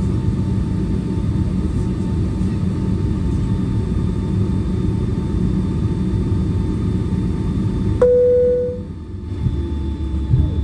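Steady cabin rumble of a Boeing 757-300 taxiing, engine and air-conditioning noise with a faint steady whine. About eight seconds in the rumble drops abruptly and a single cabin chime rings and fades.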